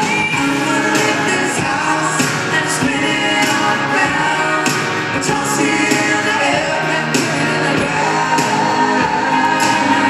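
Live country band playing with sung vocals over a steady drum beat, recorded from the crowd in a large arena.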